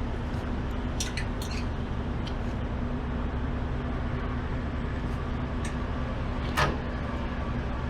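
Bungee cord being fixed: a handful of sharp clicks and clinks of its hooks, the loudest about six and a half seconds in, over the steady hum of an idling engine.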